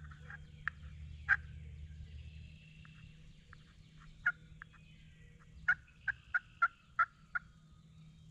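Wild turkey yelping: scattered short, sharp notes, then a run of six about three a second near the end, over a low rumble that fades after a couple of seconds.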